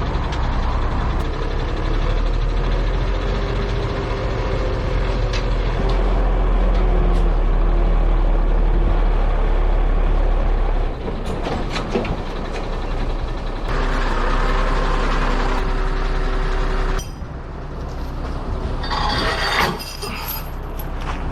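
Heavy truck's diesel engine running, its note rising and falling. The deep rumble drops away about seventeen seconds in, followed by short bursts of air hiss.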